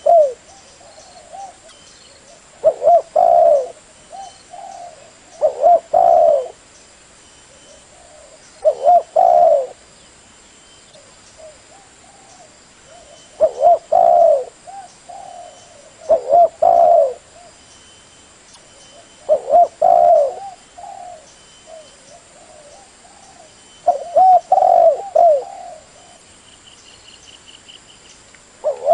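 Spotted dove cooing: short phrases of a few low coos, each about a second long, repeated every three to four seconds. It is a call used to lure doves.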